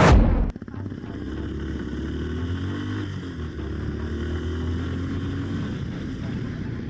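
Motorcycle engine running at a steady road speed, its pitch drifting slowly up and down, after a loud falling sweep at the very start.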